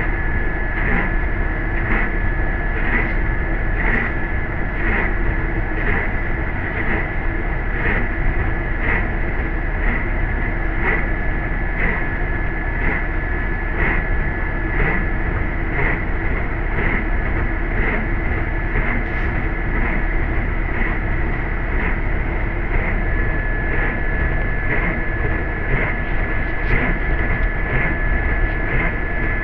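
Interior of a moving MTA city bus: steady engine and road rumble with a thin high whine, and a regular tick about once a second.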